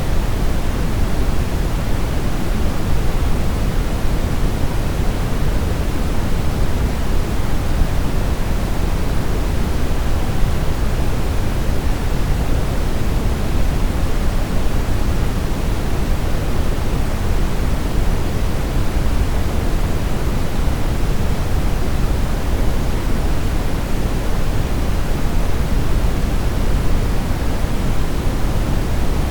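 Brown noise: a steady, even hiss-like rumble, heaviest in the low end and falling off toward the highs, unchanging throughout.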